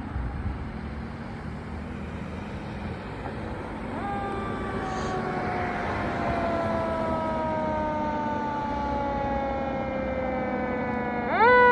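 Fire apparatus siren responding, over a steady vehicle rumble: about four seconds in its pitch jumps up and then slowly falls for several seconds. Near the end it jumps up again, much louder.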